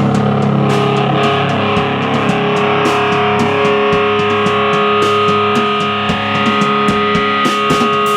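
Live band playing loud, distorted electric guitar with held notes through effects, under frequent sharp hits.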